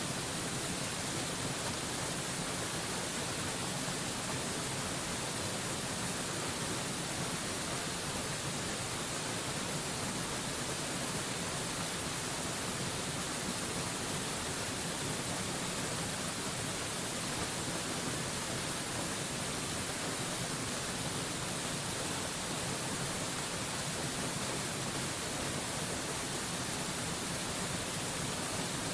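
Mountain waterfall rushing steadily: an even, unchanging hiss.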